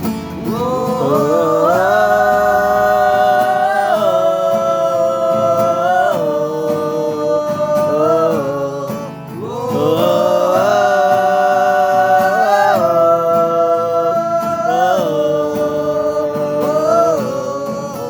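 Music: a melody of long held notes with slides between them, sung without words, over guitar, in two phrases.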